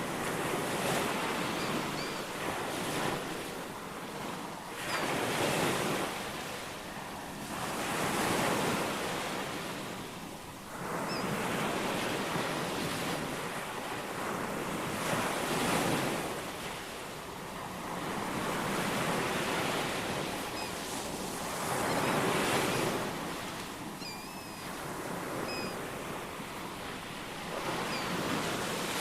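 Ocean surf washing in, swelling and falling back every few seconds, with faint short bird chirps now and then above it.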